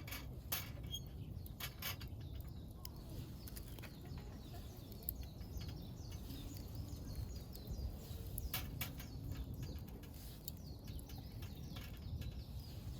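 Wild birds chirping faintly over a low, steady background rumble. A few sharp clicks come near the start and again about two thirds of the way through.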